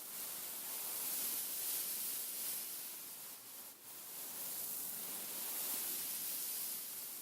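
Hands rubbing and scratching over a beaded pillow, a soft continuous hissing rustle that swells and fades in slow waves, with a brief lull a little before the middle.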